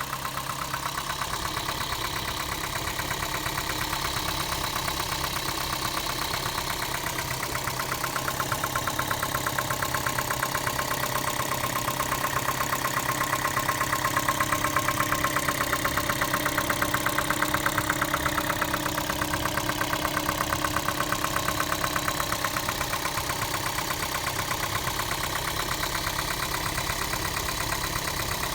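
Second-generation Toyota Prius's 1.5-litre four-cylinder petrol engine running at a steady idle with a fast, even knocking, a little louder through the middle stretch. The knock is the engine-knocking noise the owner is recording as a fault.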